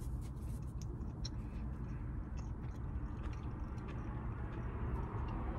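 Chewing a soft bread roll: faint, scattered mouth clicks over a steady low hum inside the parked car.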